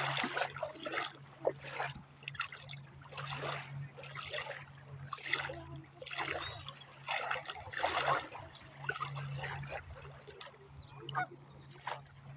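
Water splashing and trickling in short irregular bursts at the shoreline, with a steady low hum underneath.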